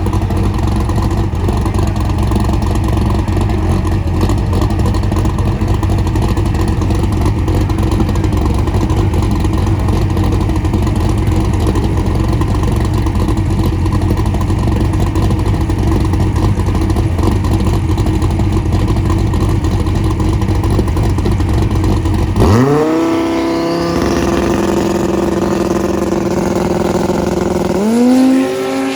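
Twin-turbo V10 Dodge Viper drag car's engine running loud and steady at the line. About 22 seconds in it launches with a sharp rise in engine pitch, climbs again with a shift near the end, and fades as it pulls away down the strip.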